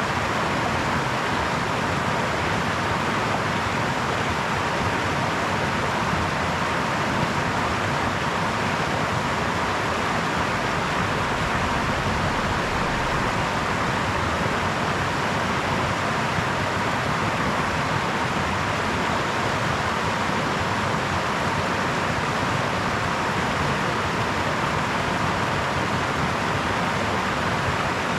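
Brook running: a steady, even rush of water that does not change.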